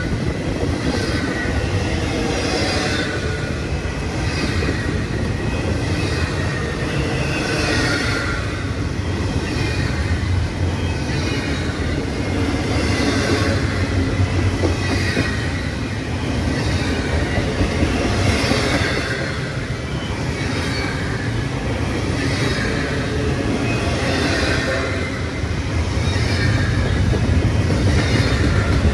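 Double-stack intermodal freight train rolling past close by: a steady low rumble of wheels on rail, with a high squeal coming and going every second or two.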